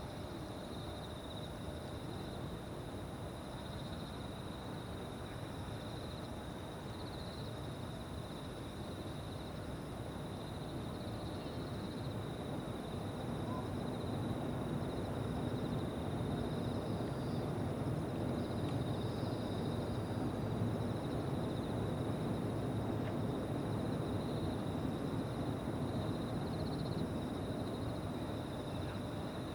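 Insects singing in a steady, unbroken high chorus. Beneath it, a low distant rumble from a jet airliner climbing out grows louder about halfway through and holds.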